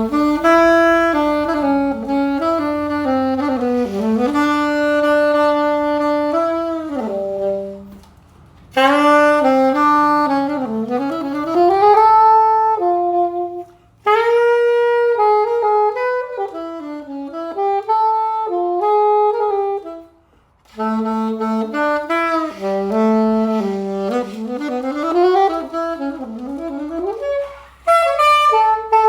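Buffet R13 B♭ clarinet played in melodic phrases with short pauses between them, mostly in its low and middle register: a play test of the instrument after a tenon repair.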